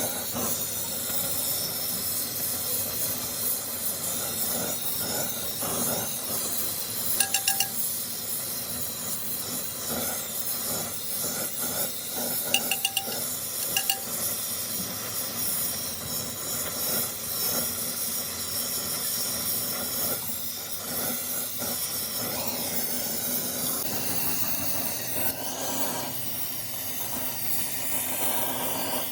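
Steady spraying hiss from workshop rim-repair work, with two brief clusters of short high chirps about a quarter and nearly half way in.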